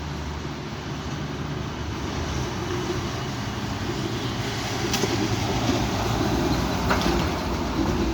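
Strong wind gusting, swelling louder about halfway through, with two faint knocks near the end.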